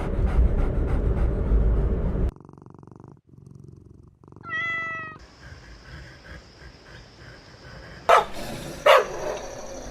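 A cat purring loudly with a low, rough rumble that cuts off after about two seconds. Then a single short meow about four and a half seconds in, and two short, sharp animal calls near the end.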